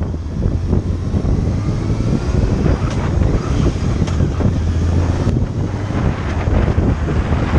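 Motorcycle engine running under way, with heavy wind rushing across the microphone.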